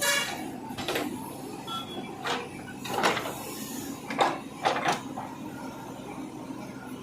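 JCB 3DX backhoe loader's diesel engine running steadily while digging and loading, with a string of about six short scraping, hissing bursts from the working machine.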